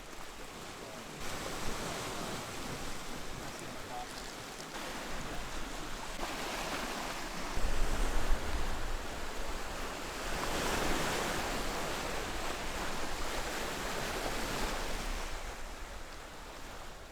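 Wind rushing over the microphone, a steady noisy wash that swells and eases, with heavier low buffeting gusts about eight seconds in.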